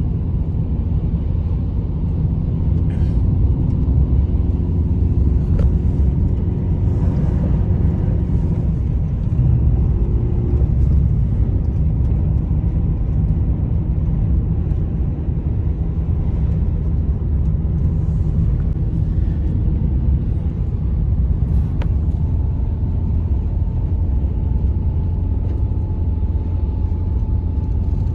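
Strong blizzard wind making a steady, loud low rumble.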